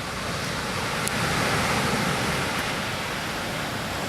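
Pacific Ocean surf washing onto the beach, a steady rush of breaking waves that swells about a second in and slowly eases.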